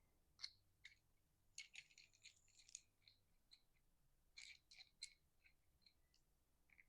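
Faint, scattered clicks and scratchy ticks of a small fitting being worked and screwed in by hand, in two clusters about two seconds and about four and a half seconds in.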